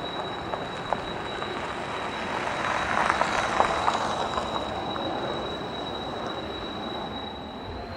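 Military jet engine running, a steady high whine over a broad rushing noise that swells for a couple of seconds in the middle; right at the end the whine begins to rise in pitch as the engine spools up.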